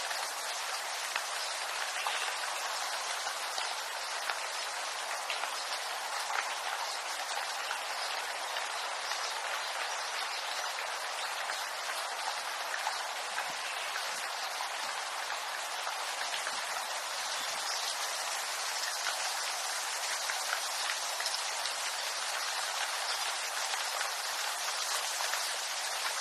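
Steady rain pattering on bamboo leaves, a dense even hiss of drops with small ticks scattered through it.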